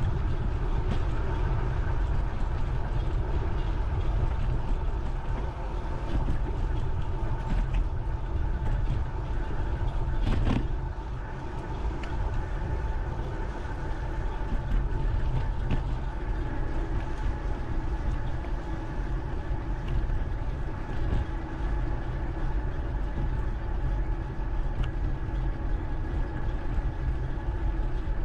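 Wind buffeting a camera microphone during a bike ride, a steady deep rumble with a faint steady hum running through it. A short knock comes about ten seconds in.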